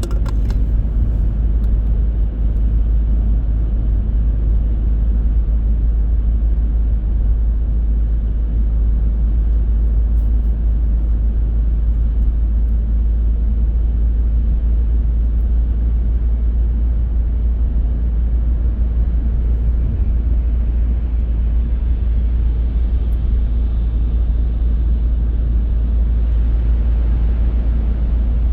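A car driving along the road: a steady, deep rumble of road and engine noise.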